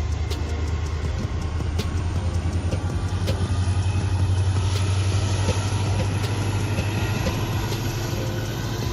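N-scale model freight train running: a steady low rumble with scattered sharp clicks.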